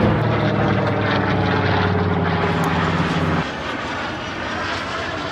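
Aircraft engine noise from a display flight: a loud, steady low drone over a broad roar. It drops suddenly about three and a half seconds in to a fainter rumble.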